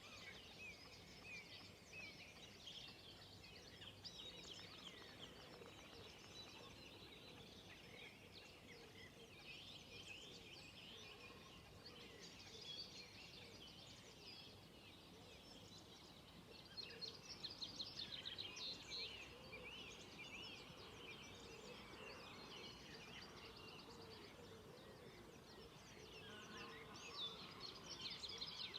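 Faint dawn chorus: several songbirds singing at once in many overlapping chirps and trills, with a louder run of rapid repeated notes about two-thirds of the way through and again near the end.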